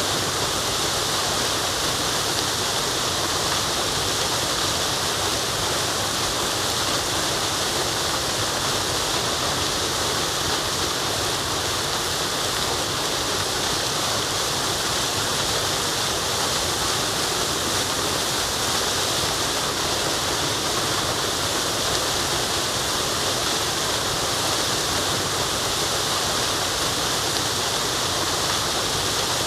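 Forest waterfall: a steady, unbroken rush of falling water, hissy and bright, with no change in level.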